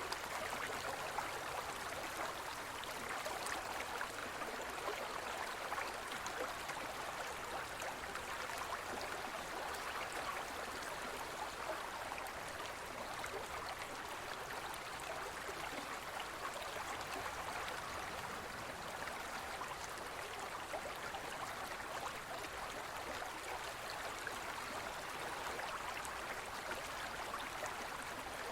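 Forest river flowing over stones, a steady rushing and gurgling with no letup.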